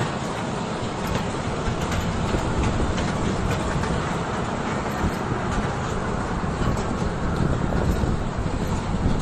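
Train running along the track: a steady rumble of wheels on rails, with faint scattered clicks.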